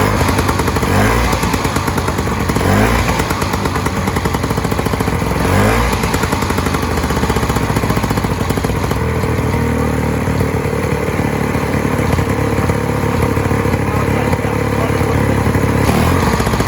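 Vintage snowmobile's two-stroke engine running, blipped up about three times in the first six seconds, then running steadily.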